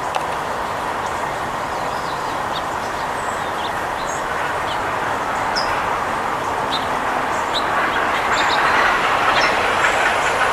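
A steady rushing noise, like passing traffic or a train, that grows louder about eight seconds in, with short bird chirps over it.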